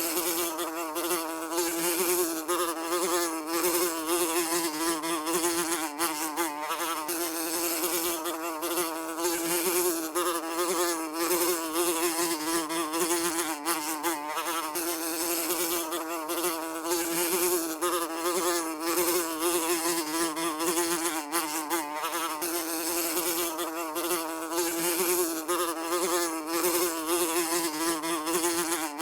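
A fly buzzing continuously, its pitch wavering slightly up and down.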